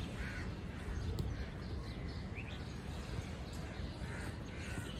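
Birds calling outdoors: several short cries over a steady low rumble.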